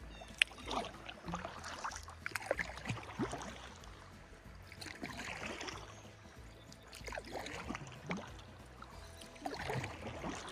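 Kayak paddle strokes: the blades dipping and splashing into river water, with drips, in clusters about every two seconds. A single sharp knock comes just under half a second in.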